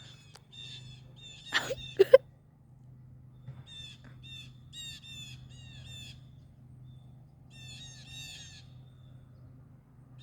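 Blue jays calling: runs of harsh, repeated jay calls, about three a second. Two louder sharp sounds come about two seconds in.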